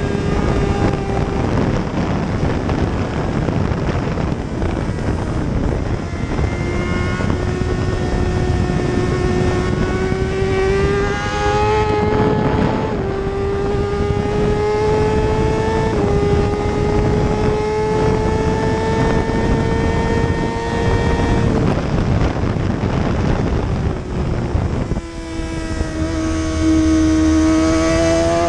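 Racing superbike engine accelerating hard, its pitch climbing through several quick upshifts, over a steady rush of wind. The engine note drops away for a few seconds, then picks up low and climbs again near the end.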